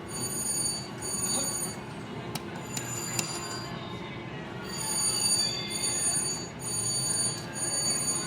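Slot machine sounding an electronic bell-like ring in repeated bursts of about a second each, with a few sharp clicks in between, over steady casino floor noise.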